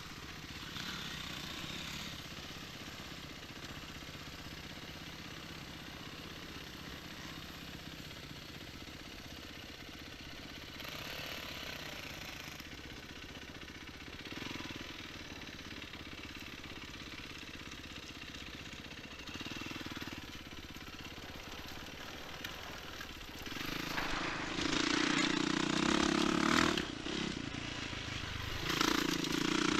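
Enduro motorcycle engines running steadily at a low level, then much louder and rougher for the last several seconds.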